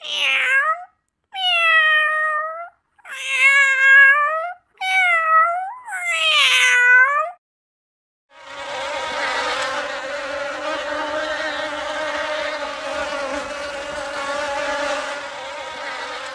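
A cat meows five times in quick succession. After a short pause about eight seconds in, honeybees begin buzzing in a steady, dense drone.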